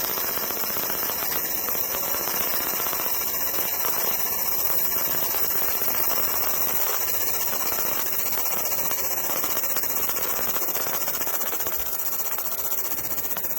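Fiber laser marking an old steel saw blade: a steady, high hissing buzz.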